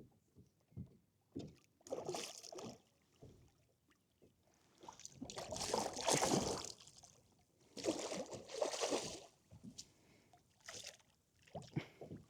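Water splashing and sloshing around a kayak in a few separate bursts, with scattered small knocks on the hull.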